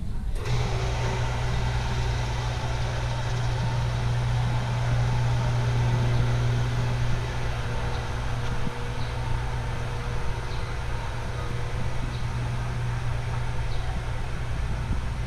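A vehicle engine running steadily with a constant low drone and road noise. The sound cuts in abruptly just after the start.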